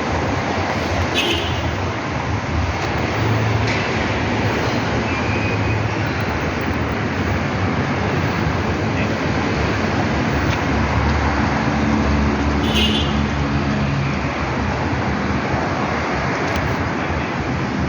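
Steady road traffic noise. About eleven to fourteen seconds in, a vehicle's engine hum stands out more clearly.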